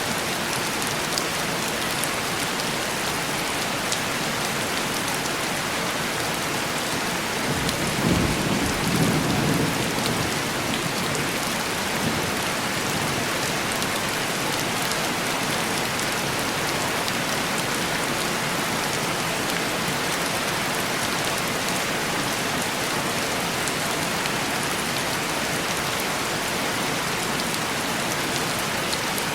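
Steady heavy rain pattering on window glass. A low rumble of thunder swells about eight seconds in and dies away over a couple of seconds.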